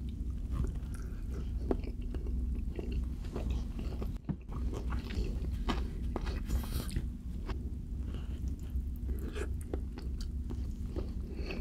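Chewing and biting of cheesy enchiladas, with many small clicks and crackles, over a steady low hum.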